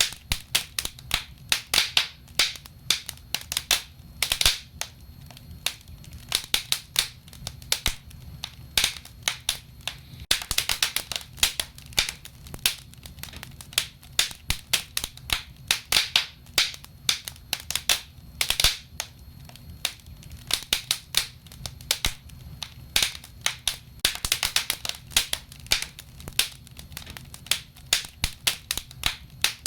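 Wood fire burning in a fireplace, crackling with frequent irregular pops and snaps over a low hiss.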